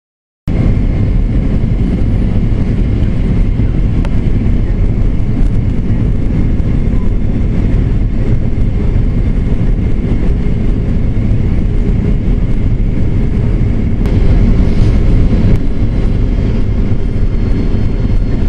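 Airliner cabin noise during the approach to landing: a steady, loud rumble of engines and rushing air with a faint steady whine above it. It cuts in suddenly about half a second in.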